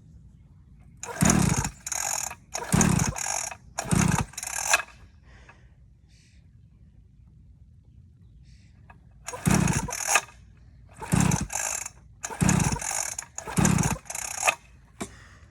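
Dirt bike engine turned over in a string of short start attempts, three and then four, each sputtering briefly without catching. The rider suspects it is out of gas.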